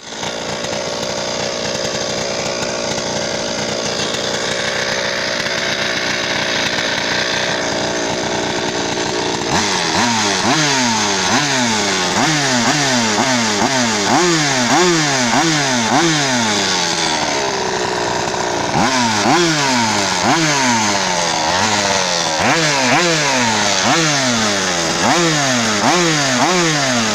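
Small engine running through a stainless steel exhaust. It idles steadily for about ten seconds, then is revved in quick repeated blips, about one a second, with a short pause midway.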